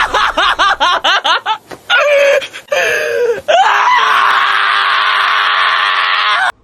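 A high-pitched voice shrieking: a rapid run of short rising cries, then one long, held, high-pitched cry that cuts off suddenly near the end.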